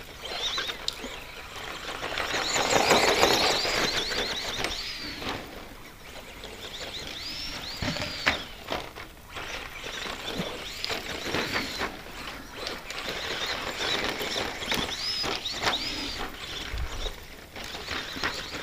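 15-turn brushed electric motor of an ECX Circuit 2WD RC stadium truck, whining up and down in pitch again and again as the throttle is blipped. Under it is the hiss of the tyres scrabbling over rough dirt, with scattered knocks from the chassis and wheels. It is loudest about three seconds in as the truck passes close.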